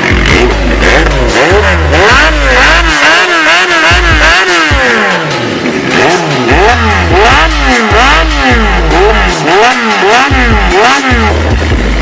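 Honda CB400SF's inline-four engine being revved in quick repeated throttle blips, the pitch rising and falling many times, with a brief lull about halfway through.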